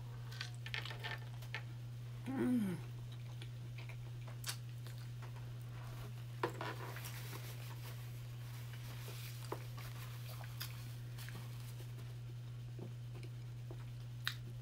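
Close-up chewing of a soft chili cheese dog: wet mouth clicks and smacks. About two seconds in comes a short falling "mm" from the voice. A steady low hum runs underneath.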